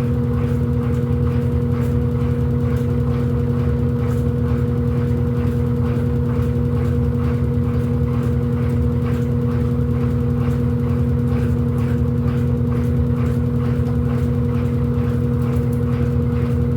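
Electrolux LED14 top-loading washing machine running: a steady motor hum over a low rumble, with a faint swish repeating a few times a second.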